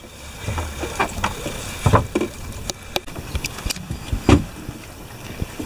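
Floating anchor line being hauled in by hand over the stern of a small boat: irregular knocks and rubbing of the rope against the boat, with louder thumps about two seconds in and again past four seconds.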